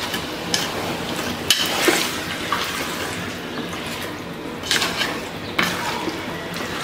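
Masala-coated chicken pieces sizzling in hot oil with fried onions in a metal pot, stirred with a wooden spatula that scrapes against the pot several times.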